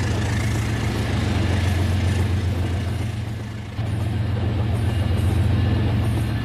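RailKing model train running: a steady low hum with a rushing noise over it. It sags a little and then comes back sharply just before four seconds in.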